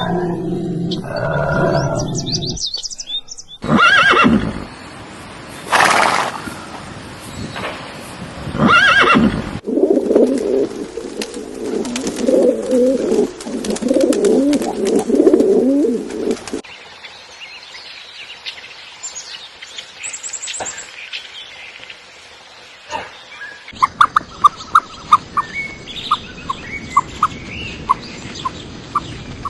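A sequence of animal calls: a bleat at first, then a horse neighing loudly three times, then a stretch of pigeons cooing, followed by faint bird chirps and fast repeated peeping near the end.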